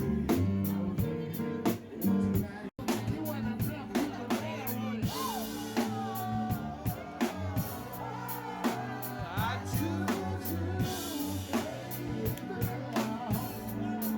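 Live band playing hip-hop and R&B covers: a steady drum-kit beat over bass, with a singing voice. The sound cuts out for an instant just under three seconds in, at a splice between clips.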